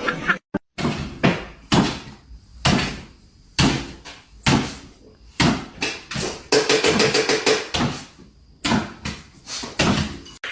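A series of sharp knocks or bangs, roughly one a second, with a longer rattling stretch about two-thirds of the way through.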